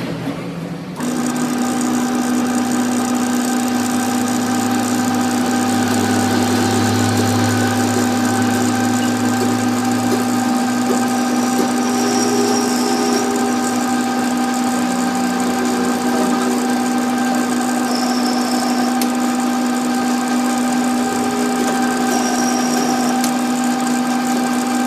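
An electric workshop machine motor running at a steady speed, starting about a second in, with a constant hum.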